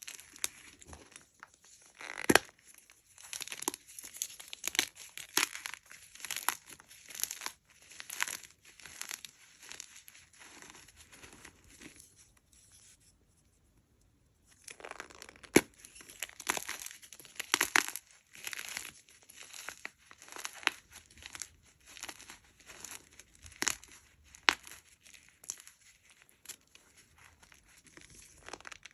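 Hard gym chalk blocks being crushed and crumbled close up: dense, irregular crackling crunches with a couple of sharper snaps. There is a short pause a little before halfway.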